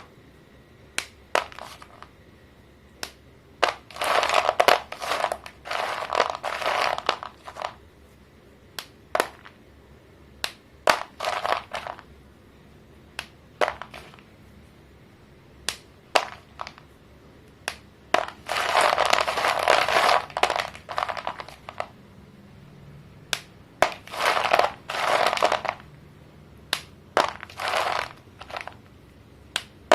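Sticks of pink and purple chalk snapping and crumbling. Sharp single snaps are scattered throughout, between longer stretches of crunching, two to three seconds each, a few seconds in and again past the middle.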